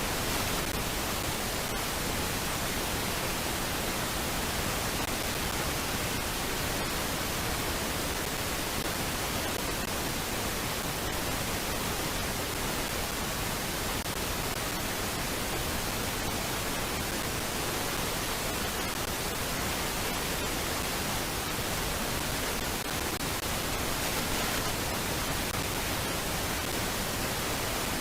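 Steady, even hiss of noise with no bird calls, and a few faint clicks.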